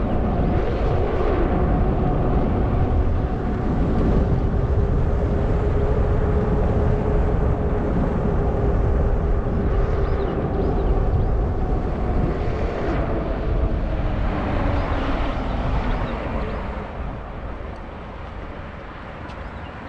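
Wind rushing over the microphone of a moving Zota Zephyr fat-tire e-bike, with a steady whine from the bike that falls in pitch and fades in the last few seconds as the bike slows down.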